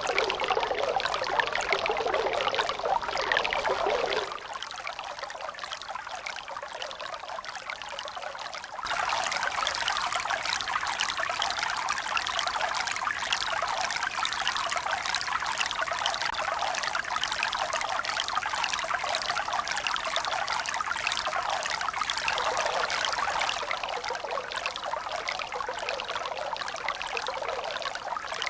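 Steady rushing, trickling water. It drops quieter about four seconds in and comes back louder and brighter about nine seconds in.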